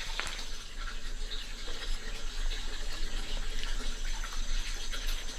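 Water running in a steady stream, with a few faint knocks.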